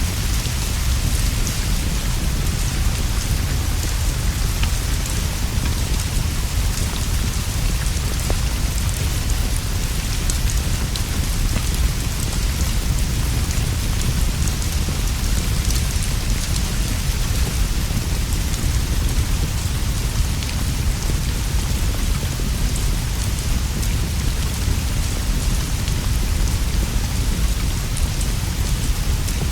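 Steady rain falling on leaves and a straw roof, an even hiss with a deep continuous rumble underneath and scattered faint ticks of drops.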